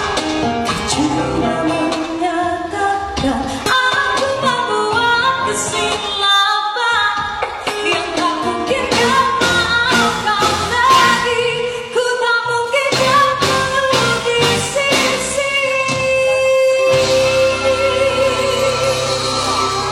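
A female singer with a band performing a pop song, her voice running through ornamented, wavering melodic lines. Near the end she holds one long steady note, then the band holds a chord.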